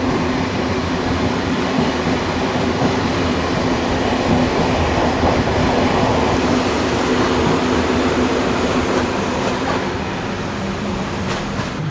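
Sleeper train rolling along the track, a steady running noise with a low hum. A thin high whine joins about two-thirds of the way through.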